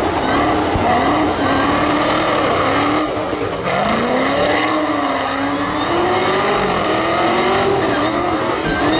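Car engine held at high revs during a burnout, its pitch wavering up and down as the throttle is worked, over a steady hiss of spinning, squealing tyres.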